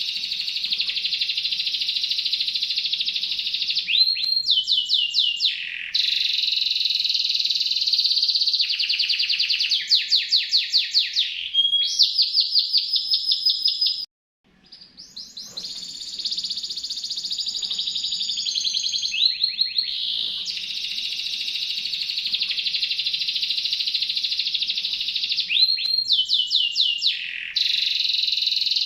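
Domestic canary singing a continuous song of long, fast trills of repeated notes, rolling from one trill into the next. It cuts off abruptly about fourteen seconds in and fades back up.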